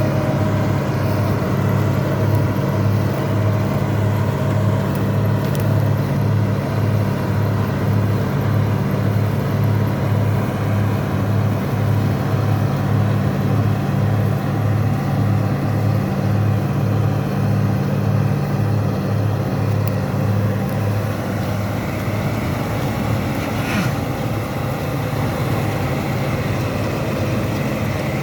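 Bizon Rekord Z058 combine harvester's 6CT107 six-cylinder diesel engine running steadily, a low hum with a regular throb. About three quarters of the way through, the steady hum gives way to a rougher, noisier sound.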